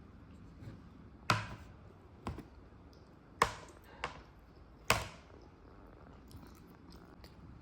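Five sharp knocks of tableware on a hard surface, three of them loud with a short ring-off.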